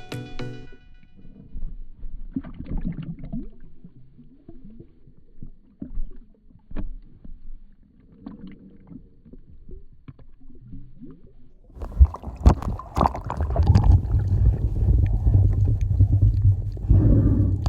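Water sounds against a camera's microphone: faint knocks and soft splashing, then about twelve seconds in a loud, heavy low rumble of water washing over the microphone.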